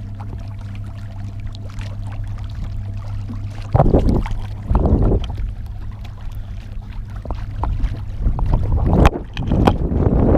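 Homemade electric trolling motor on a kayak running with a steady low hum. From about four seconds in, loud rushing noise surges over it twice, then again near the end, with a sharp click in between.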